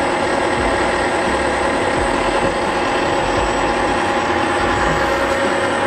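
Metal lathe running steadily under power, a constant machine noise with a few steady tones over a rough hiss.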